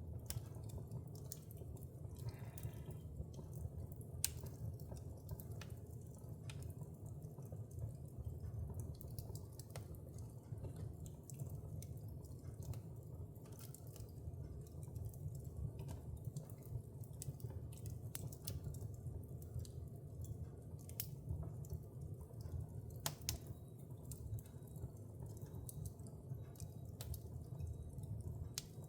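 Wood fire burning in a fireplace: a steady low rumble of flames with scattered sharp crackles and pops, a couple of them louder.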